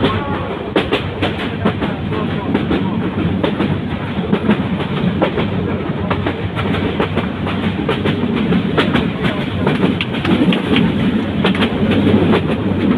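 Train rolling along the rails: a steady rumble with many sharp clicks and clacks from the wheels.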